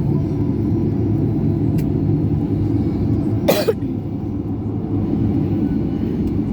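Steady low rumble inside a Boeing 737 cabin as the airliner taxis. About three and a half seconds in, a person coughs once, briefly.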